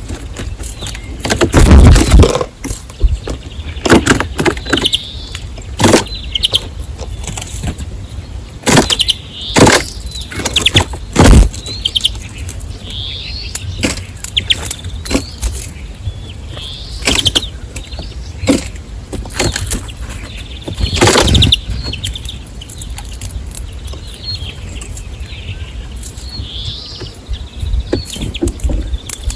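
Small birds at a feeder chirping in short high notes, with frequent loud knocks and wing flutters close to the microphone, irregular and several seconds apart.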